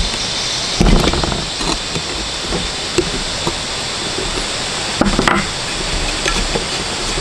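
Repair-work handling noises: scattered small clinks over a steady hiss, with two louder knocks about a second in and about five seconds in.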